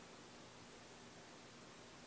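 Near silence: a faint steady hiss with a faint low hum.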